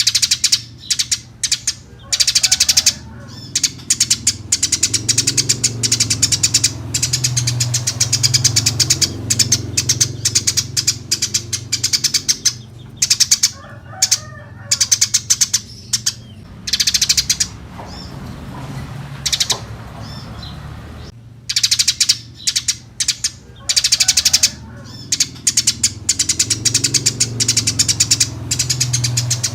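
Eurasian tree sparrow chirping in long, fast runs of high chirps, broken by short pauses, over a steady low hum.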